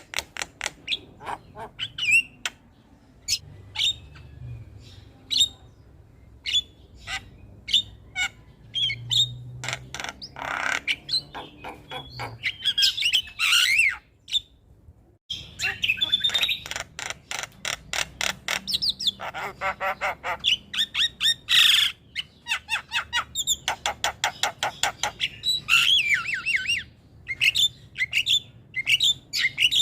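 Javan myna (jalak kebo) singing: fast runs of short clicking chirps and whistles broken by harsh raspy squawks, with a brief silent break about halfway through.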